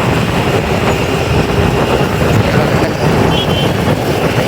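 A moving road vehicle running steadily, a constant low rumble of engine and road noise.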